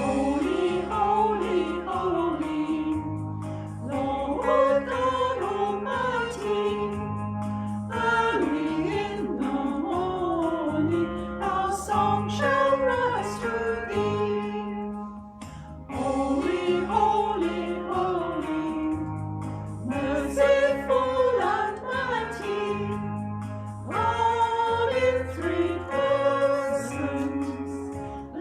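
A hymn sung by a small group of voices over a steady instrumental accompaniment, in phrases of about four seconds with short breaks between them.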